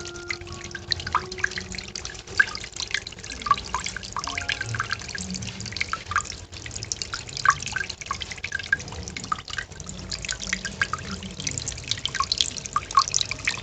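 Homemade earthen-pot fountain running: water spills from the pot into a tray of water, splashing and dripping irregularly and continuously.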